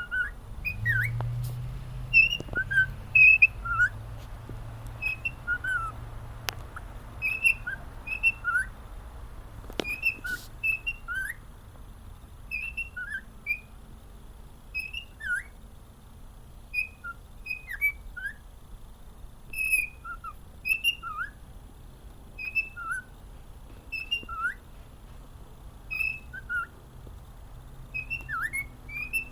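Pet cockatiel whistling a melody: a long run of short whistled notes, many sliding up or down in pitch, repeated in phrases.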